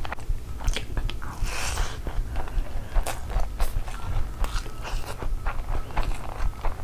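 Close-miked chewing of a full mouthful of fried rice: wet smacking and clicking, several a second, with a brief louder crunch about one and a half seconds in.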